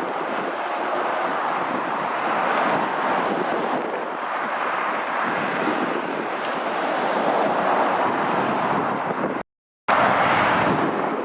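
Steady rush of fast road traffic and tyre noise, with vehicles swelling louder as they pass, and wind buffeting the microphone. Near the end the sound cuts out completely for about half a second, then returns.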